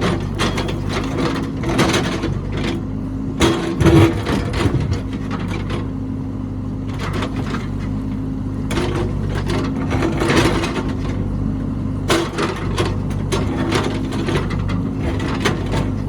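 Diesel engine of a heavy construction machine running steadily, with frequent clanks, knocks and scraping of metal and material from the machine at work.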